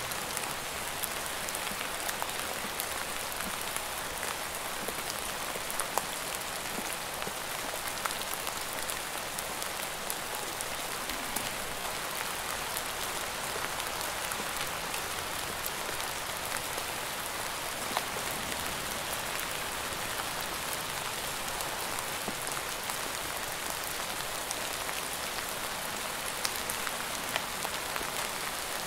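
Steady rain falling: an even hiss of many drops, with scattered sharper individual drop taps.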